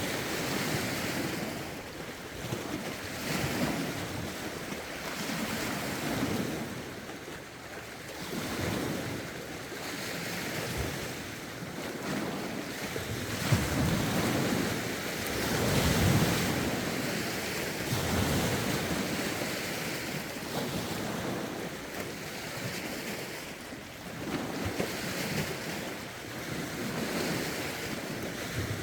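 Lake waves washing against the shore, swelling and falling every couple of seconds in a steady rhythm, with gusty wind buffeting the microphone.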